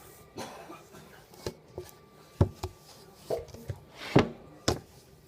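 Kitchen utensils knocking and tapping on a board while pie dough is rolled out and cut: about seven irregular sharp knocks, the loudest about four seconds in.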